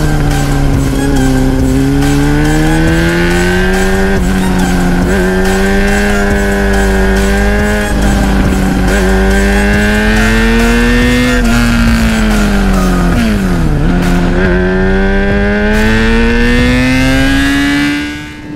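Inline-four motorcycle engine running under way, its pitch rising and falling with the throttle. About thirteen seconds in the pitch drops sharply and then climbs again as the throttle is closed and reopened.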